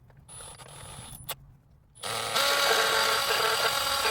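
A few light clicks and knocks of handling, then about halfway through a handheld electric power tool starts and runs with a steady motor whine.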